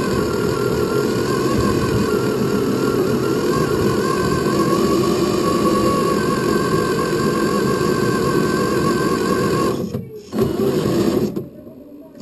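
Tamiya 1/14-scale Scania R470 radio-controlled truck running, recorded on board: a steady mechanical hum with a wavering whine. It drops out briefly about ten seconds in, comes back, then falls much quieter near the end.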